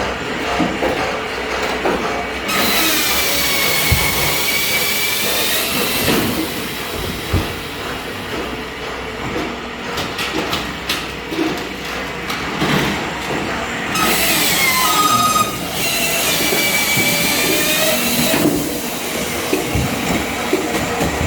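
Machine saw cutting oak firewood logs to length over a steady running machine. Twice, a high whine sinks in pitch as the blade bites into the wood and climbs back as it cuts through.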